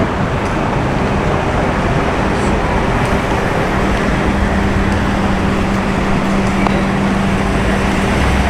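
Street traffic: a steady wash of vehicle engines and tyre noise, with a steady low engine hum setting in a few seconds in and a deeper rumble near the end.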